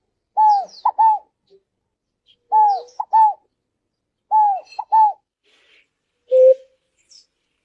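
Ruddy ground dove cooing: three two-note coos about two seconds apart, each a pair of arched notes, then a single lower, flat coo near the end.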